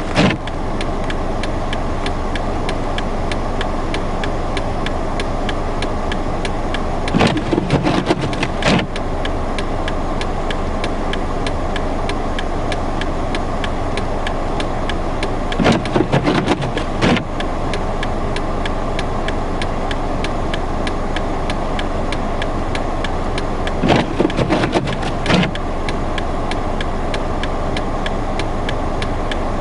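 Steady noise of an idling car stranded in blizzard winds. Three times, about every eight seconds, a short run of clicks and knocks sounds over it.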